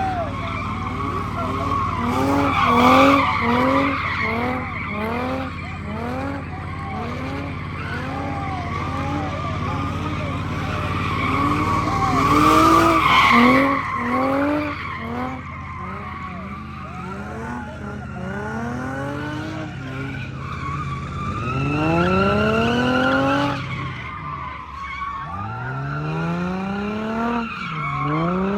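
A car engine revving again and again in quick rising blips over a steady tire squeal, as in a burnout or donuts. Near the end come two long, hard accelerations with steadily climbing pitch.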